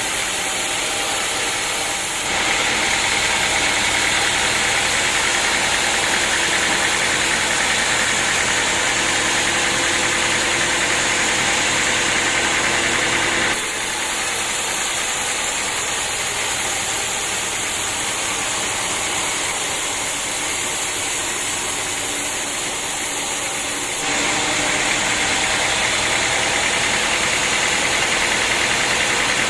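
Sawmill running with a steady mechanical noise, sawing large acacia wood. The noise gets louder and brighter about two seconds in, drops back about halfway through, and rises again near the end.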